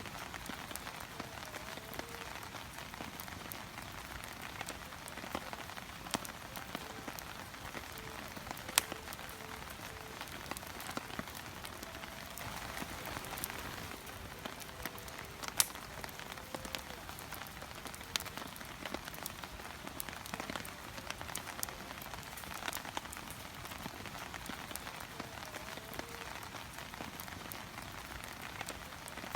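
Wood fire crackling in a Coleman Fire Disk: a steady hiss with scattered sharp pops, the two loudest about 9 and 16 seconds in.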